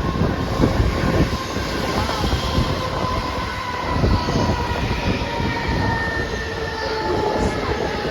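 Mumbai suburban local train running, a steady rumble with thin whining tones that drift slowly down in pitch.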